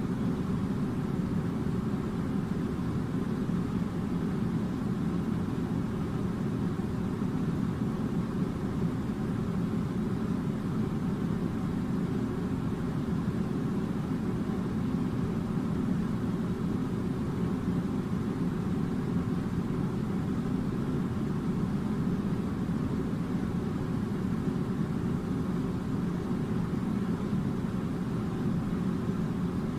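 Air conditioner running with a steady, low rushing hum that does not change.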